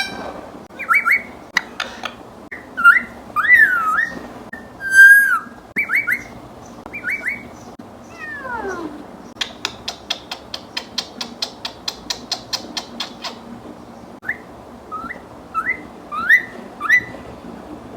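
African grey parrot whistling a string of short notes that swoop up and down, with one long falling whistle about halfway through. In the middle comes a fast run of clicks, about five a second.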